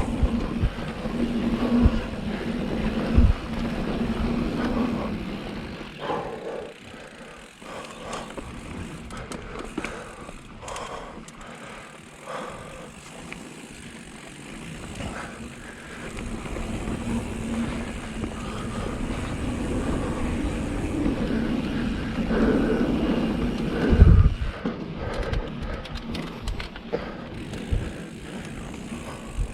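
Full-suspension mountain bike (2019 Vitus Sommet) ridden down a dirt trail: tyre noise, rattling and knocks over rough ground, with a hard thump about 24 seconds in.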